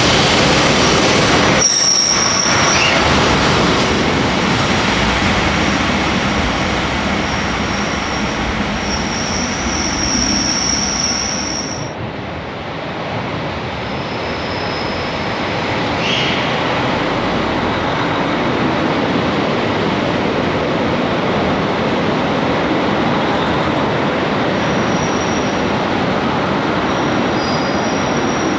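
JR Hokkaido KiHa 261 series diesel express train running, a steady loud rumble with high, thin wheel squeals now and then: near the start, around a third of the way in, and again near the end.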